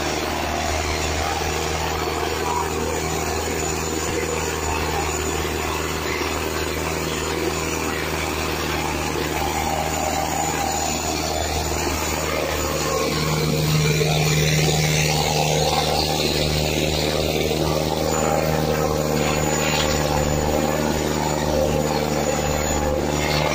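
Preet 6049 tractor's diesel engine running steadily, a little louder for a few seconds just past the middle.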